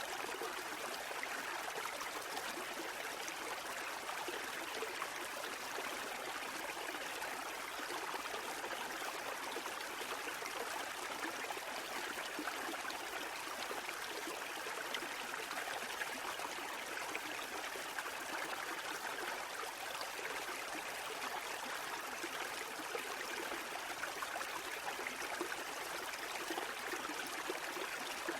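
Running water babbling steadily, even in level throughout, without the surge and fall of breaking waves.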